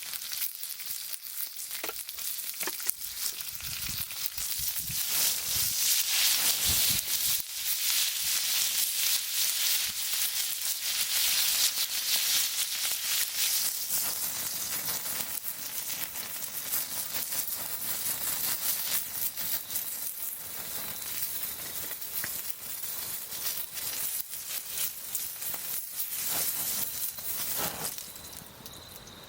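Meat sizzling over a campfire, a dense hiss with scattered pops, loudest in the first half. It stops shortly before the end, leaving a steady high insect trill.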